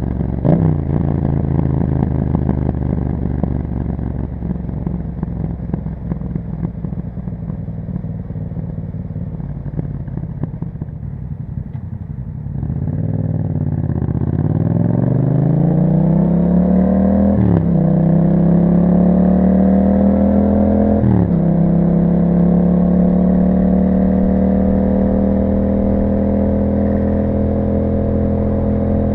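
2021 Yamaha MT-07 parallel-twin running through an Akrapovic exhaust while riding. Its pitch drops sharply just after the start and eases down for several seconds. About halfway through it accelerates, climbing through two upshifts a few seconds apart, then holds a steady cruise.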